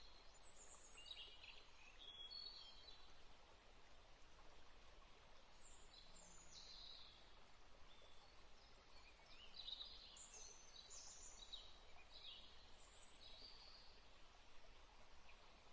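Faint birdsong: many short chirps and trills from songbirds, scattered all through, over a soft, steady hiss.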